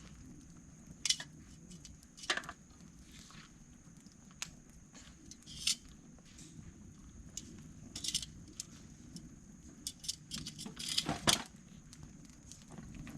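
Irregular clicks and clatters of sticks and metal tongs being handled at a small campfire, with sharper knocks about a second in, two seconds in, and a quick cluster around eleven seconds in.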